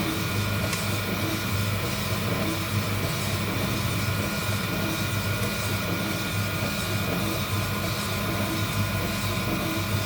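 Heat gun running steadily, its fan blowing with a constant whine over a low hum, during a coffee bean roast.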